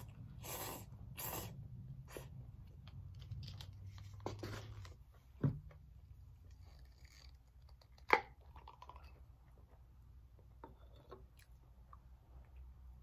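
A person chewing firm, slightly crunchy instant noodles close to the microphone, in irregular crunches, with two sharper clicks about five and eight seconds in.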